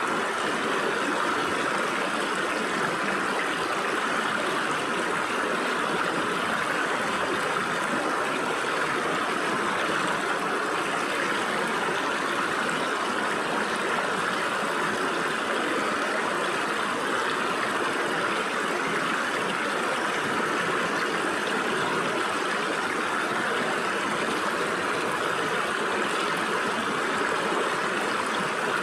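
Stream water running and splashing through gaps between rocks: a steady rushing with no breaks, most of it in the middle and upper range.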